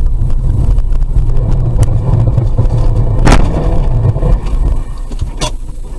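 Car driving with a loud, low rumble of engine and road noise. A sharp knock comes about three seconds in, and a lighter one about a second later, after which the rumble eases.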